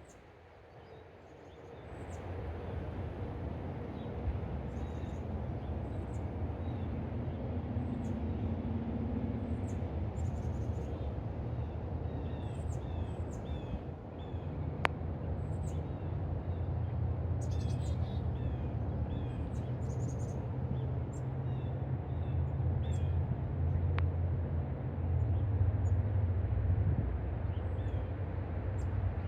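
Small birds chirping in short high notes, over a steady low rumble that comes in about two seconds in and grows a little louder toward the end.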